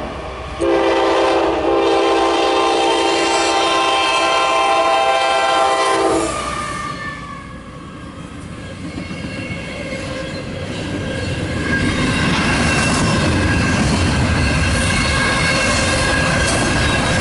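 A CSX freight locomotive's horn sounds a long blast of about six seconds, starting under a second in. The horn then stops, and the intermodal train's rumble and wheel clatter build and hold steady from about ten seconds in as the train passes.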